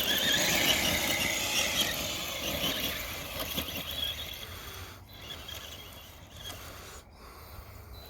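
RC truck's Castle 3800 kV brushless motor and drivetrain whining under throttle, a high whine that fades away after about four seconds.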